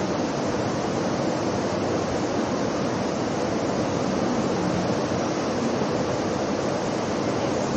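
Steady rushing of water falling from the ceiling of the Rain Room's indoor artificial-rain installation, an even, unbroken hiss.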